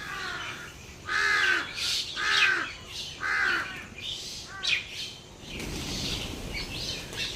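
A bird calling: three loud calls about a second apart, then a shorter call and fainter calls.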